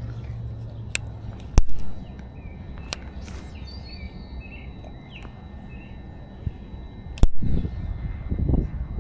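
Birds chirping outdoors, broken by a few sharp knocks, two of them loud. About seven seconds in, low rumbling noise sets in.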